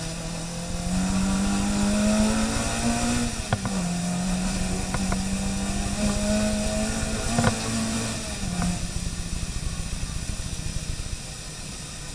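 Car engine running under load, its pitch climbing for about three seconds, dropping, holding steady, then easing off about eight and a half seconds in, with a few sharp clicks along the way.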